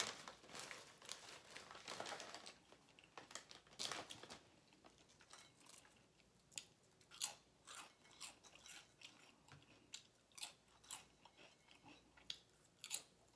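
A person chewing a cheesesteak sub close to the microphone, with irregular soft wet mouth clicks and smacks, busier in the first few seconds and again near the end.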